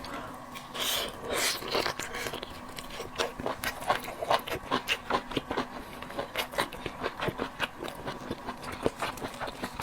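Close-miked mouth sounds of eating sea snails: wet chewing and smacking in quick, irregular clicks, several a second.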